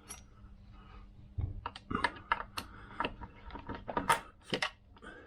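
A quick run of light clicks and taps, about a dozen over three seconds, as small metal hardware (a screw, washers and a nut) is handled and fitted by hand onto the engine.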